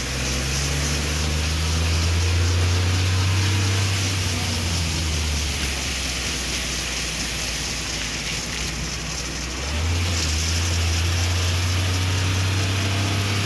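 Car engine and tyres on a wet road heard from inside the moving car, under a steady hiss of rain and spray. The engine hum rises in the first couple of seconds, eases off, and rises again, louder, about ten seconds in as the car picks up speed.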